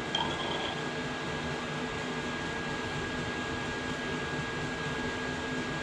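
Steady hum of running workshop machinery, with a thin high whine held throughout. A brief faint squeak comes just after the start.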